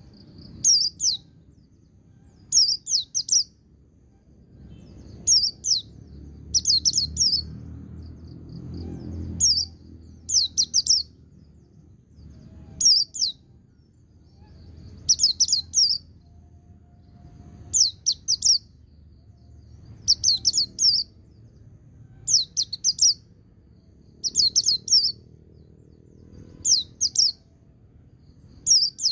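Pleci (white-eye) singing in ngalas-style phrases: short clusters of two to four quick, high notes, repeated about every two seconds.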